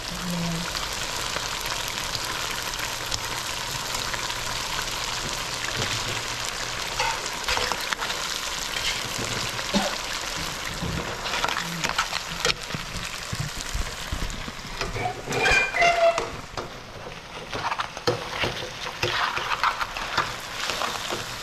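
Mud crabs in a sweet butter-garlic sauce sizzling steadily in a wok, with a metal spatula scraping and clicking against the pan as the sauce is stirred and spooned over them.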